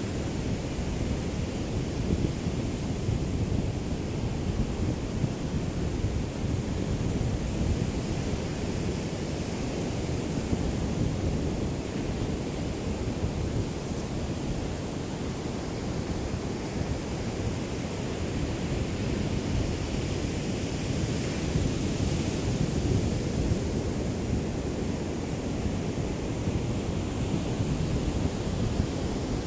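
Small waves of a calm sea lapping on the shore in a steady wash, with a low wind rumble on the microphone from a light breeze.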